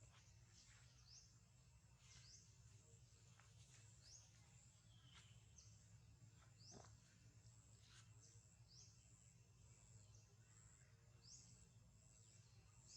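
Near silence with faint outdoor ambience: a steady high drone like insects, with short high rising chirps every second or two over a low background rumble.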